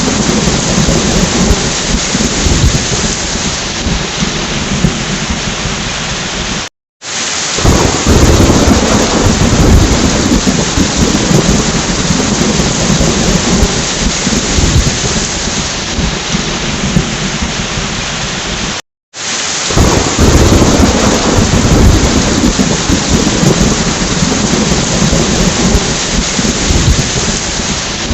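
Steady rain with thunder rumbling underneath. The sound cuts out completely for a split second twice, about seven and nineteen seconds in, and each time comes back with a louder rumble.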